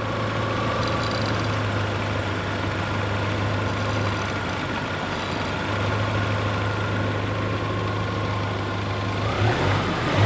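Ford Ranger four-cylinder engine idling steadily under load from the air conditioning and headlights, with a faint steady whine over the hum. It has just been rebuilt with a replacement cylinder head and runs smoothly.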